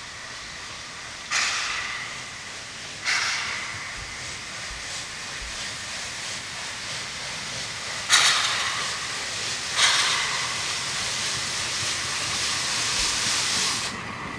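Narrow-gauge steam locomotive hissing steam, with four sudden bursts of steam that each fade over about a second, two early and two about two thirds of the way in. A steadier hiss follows near the end.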